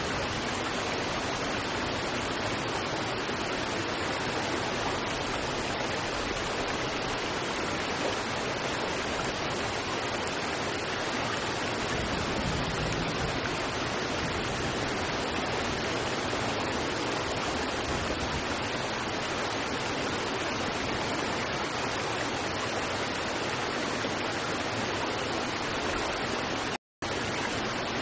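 River water rushing steadily over rocks, an even unbroken flow. It cuts out completely for an instant near the end, then resumes.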